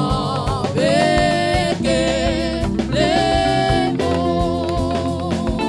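Live gospel worship music: a band with guitar and drums playing under singing voices that hold long, wavering notes.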